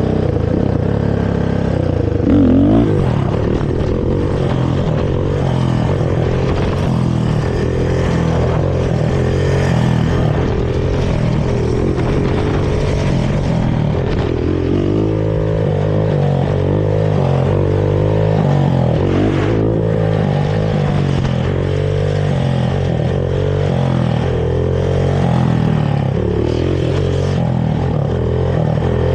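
Honda TRX450R carbureted ATV's single-cylinder four-stroke engine through its stock exhaust, running under a rider with the revs rising and falling continually. A brief louder rev rises about two and a half seconds in.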